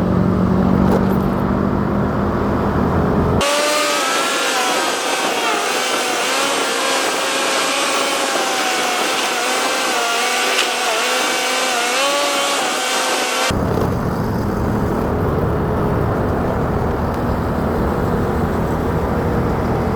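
Motorcycle engine and wind rumble while riding, with a steady low drone. From about three seconds in until about thirteen seconds the low rumble cuts out abruptly and wavering higher tones over a hiss take its place, then the riding rumble returns just as suddenly.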